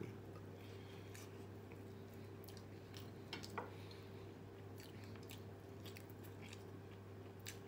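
Faint chewing of a mouthful of rice, eaten by hand, with scattered soft mouth clicks, a couple of them louder around the middle, over a steady low hum.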